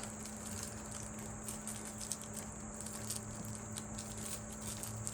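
Faint small clicks and crinkles of a wrapped candy being handled and opened, over a steady low hum.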